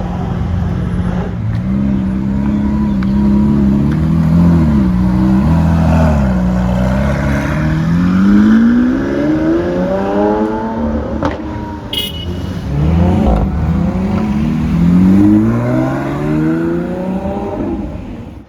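Lamborghini Aventador SVJ's V12 being revved: two short blips, then two long climbs in pitch that each fall back, with a single sharp crack about twelve seconds in.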